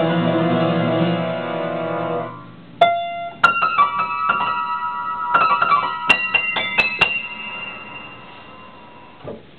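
Solo piano: sustained middle and low notes die away about two seconds in. A scatter of quick, separate high notes follows, ringing on and fading out over the last few seconds.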